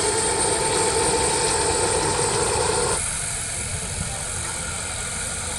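Turbine engine of a large radio-controlled Alouette III model helicopter running with a steady high whine and rotor noise. About three seconds in, the sound changes suddenly and gets a little quieter, and its lower humming tones drop out.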